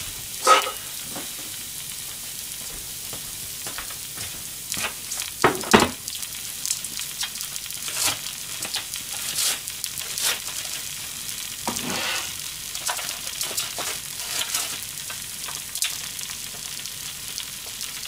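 Okonomiyaki batter crepe frying on low heat under a heap of chopped cabbage in a frying pan: a steady sizzle with scattered crackles and pops. The loudest pops come about half a second in and around six seconds in.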